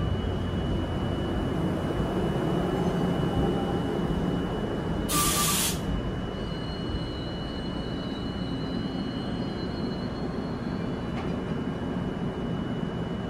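NJ Transit commuter train cars rolling slowly along the platform, a steady low rumble. About five seconds in comes a short, sharp hiss of air from the train.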